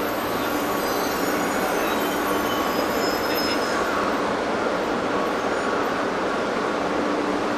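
Shinkansen bullet train running at low speed along the track, a steady rumble with faint high wheel squeals a few seconds in.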